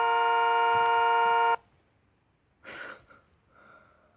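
Car horn sounding one steady blast of about a second and a half, then cutting off suddenly.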